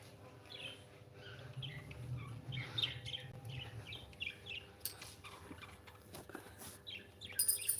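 Small pet parrots chirping: a run of quick, short high chirps through the middle, more again near the end, with a couple of sharp clicks.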